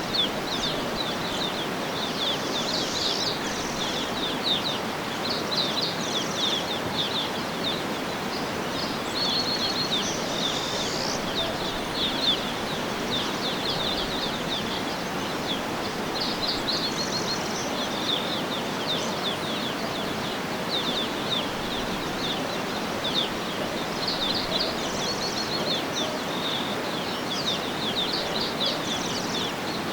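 Many small birds chirping and twittering continuously over a steady outdoor background hiss.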